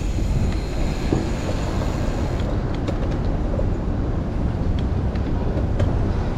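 Strong wind rushing over the microphone of a chest-mounted camera on a moving bicycle, a steady low rumble mixed with city traffic. The higher hiss thins out about two and a half seconds in.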